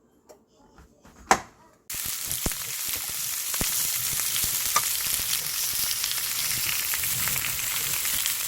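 A couple of sharp knocks, then food frying in a pan: a steady sizzle that starts suddenly about two seconds in and carries on, with small crackles in it.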